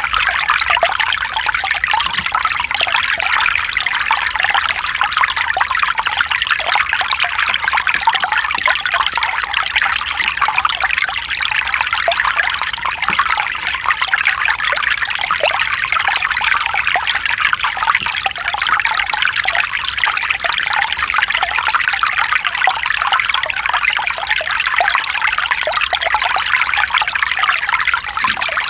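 Mountain stream running over rocks: steady water babbling and trickling, with no pauses.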